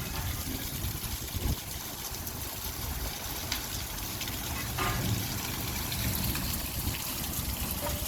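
Light rain falling, a steady even hiss with water trickling and scattered drips.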